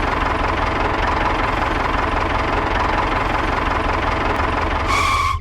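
Engine running steadily with a dense, even rattle. A short high tone sounds near the end.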